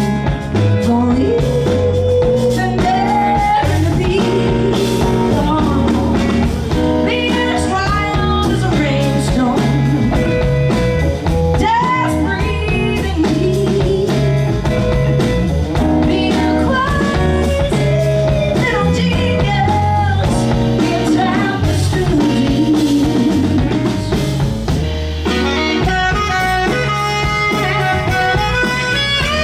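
Live blues band playing: electric bass and drum kit under a lead line of bending notes.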